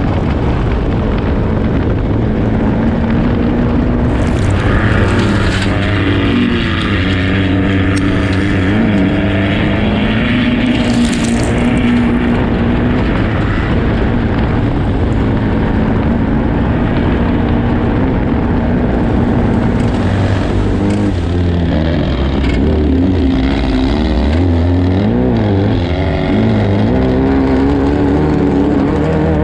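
An off-road race car's engine running hard, its pitch rising and falling again and again as it revs up and eases off. Two short bursts of hiss come about four and eleven seconds in.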